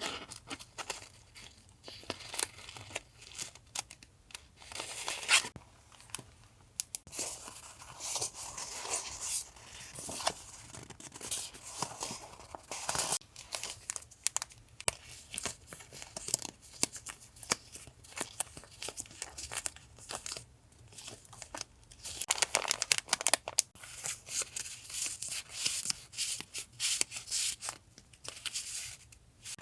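Paper and plastic packaging being handled by hand while a box of stickers and journaling supplies is unpacked: irregular crinkling and rustling with tearing and small sharp clicks and taps.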